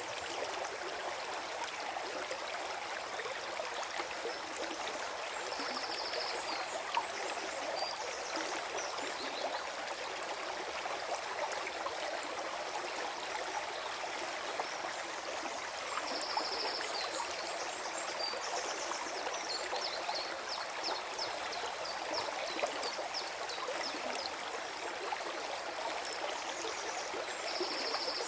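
Forest stream flowing steadily with gurgling water, with a short high call near 5 kHz recurring about every ten seconds.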